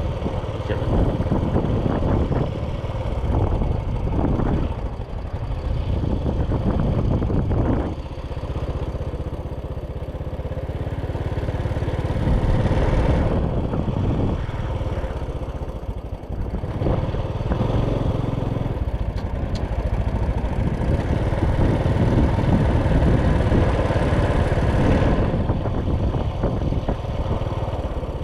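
Motorcycle engine running steadily while riding, its pitch wavering a little with the throttle, over a continuous low rumble of wind and road.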